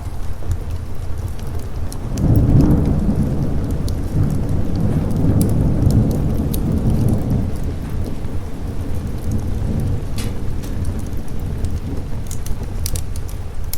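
A long roll of thunder rumbles in over steady rain about two seconds in, swells and fades away over the next several seconds, while a fire crackles with occasional sharp pops.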